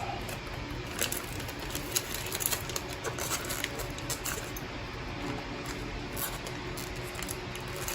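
Small scattered clicks and light rustling from parts being handled while fitting a replacement touchscreen, over a faint steady hum.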